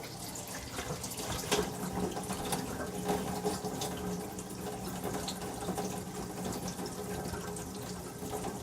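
Kitchen faucet running steadily into the sink, the water draining through a newly installed sink strainer as the new drain seal is tested for leaks.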